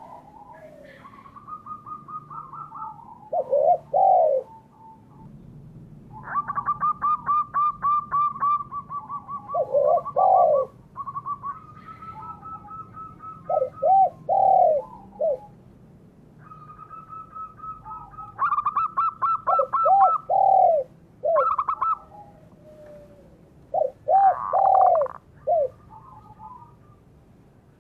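Doves cooing: short, low, arched coos in groups of two to four, repeated every few seconds. Between them run rapid strings of higher repeated bird notes.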